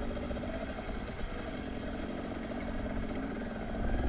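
Dirt bike engine running, its pitch wavering up and down with the throttle and rising near the end.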